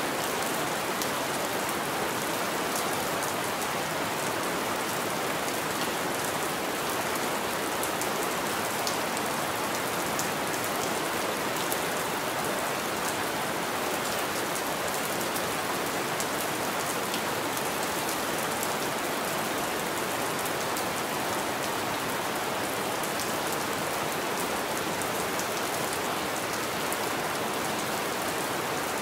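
Steady rain falling on a window pane: a dense, even hiss with faint ticks of single drops.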